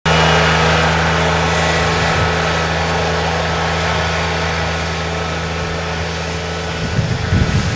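An engine running steadily, with a loud hiss over it. About seven seconds in, the steady engine tone gives way to an uneven low rumble.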